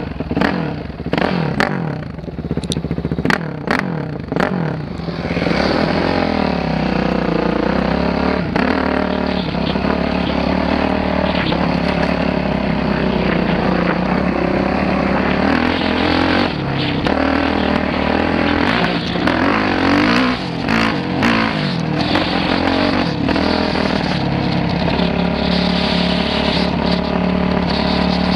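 Dirt bike engine running and revving up and down. There is a run of sharp knocks and clicks in the first few seconds.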